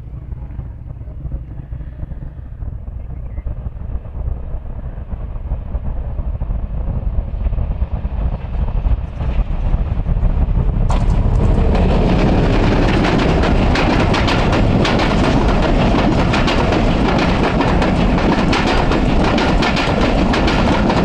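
Express passenger train arriving behind a diesel-electric locomotive, its rumble building steadily as it approaches. About halfway through it turns abruptly into a loud, steady rush of wheel and rail noise as the train runs alongside.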